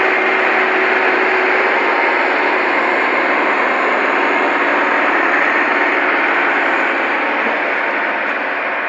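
Millat tractor's diesel engine running hard under load, a loud steady noise that eases slightly near the end.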